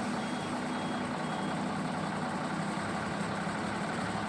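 Heavy diesel engine running steadily, moments after starting. A faint reversing alarm beeps about twice a second for the first second and a half.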